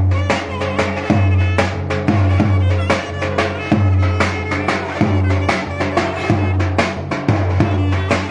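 Turkish folk dance music: a clarinet plays a continuous melody over a davul drum beating a steady, driving rhythm with heavy low strokes.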